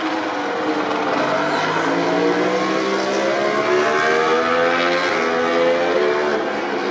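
MotoGP racing motorcycle's four-cylinder engine running hard, its pitch climbing over the first few seconds as it accelerates, then levelling off.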